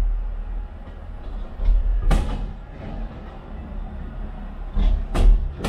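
Aerial firework shells bursting over a steady low rumble: one sharp bang about two seconds in, then three more in quick succession near the end, each with a short fading echo.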